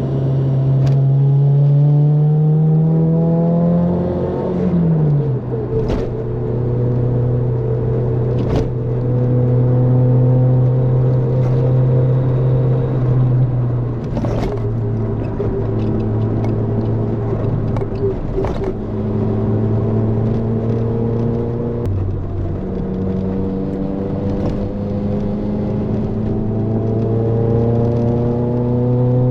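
Toyota AE86's 4A-GE four-cylinder engine running through a Fujitsubo exhaust under way. The revs climb for the first few seconds, fall sharply at a gear change, hold steady through the middle, then pick up again near the end, with a few sharp clicks along the way.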